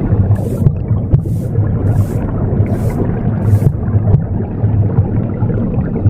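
Womb sound, a low rushing whoosh that pulses steadily, mixed with a broom sweeping in short hissing strokes, about five of them under a second apart, which stop a little past halfway through.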